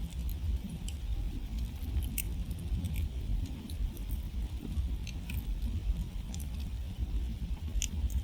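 Wood campfire crackling, with scattered sharp pops and snaps over a steady low rumble of burning flames. A louder pop comes near the end.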